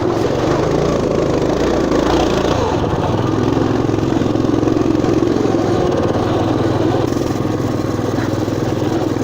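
Motoland RT200 fat-tyre mini-bike's small single-cylinder engine running steadily under throttle while being ridden.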